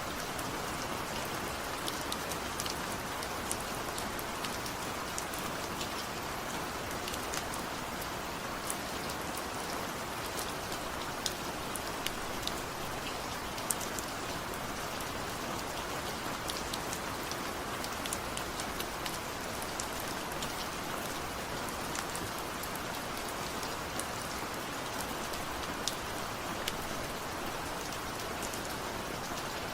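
Steady rain: an even hiss with many individual drops ticking sharply on a surface, scattered throughout.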